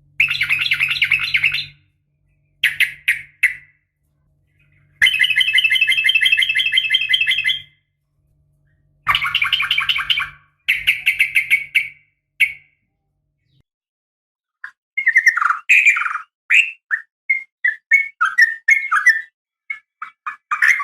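Yellow-vented bulbul (trucukan) giving its rapid rolled 'ropel' call: a run of short bursts of fast repeated notes, each one to three seconds long with pauses between, changing near the end to a looser string of short, separate chattering notes. It is a fighting call, played to excite other bulbuls into calling back.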